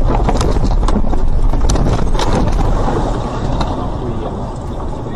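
Car ploughing through deep floodwater, water rushing and splashing against the body along with road and engine noise, easing off after about three seconds.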